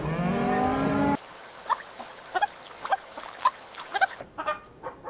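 Chickens clucking: a string of short, separate calls that begins about a second in. Before that, a louder sustained low pitched sound cuts off abruptly.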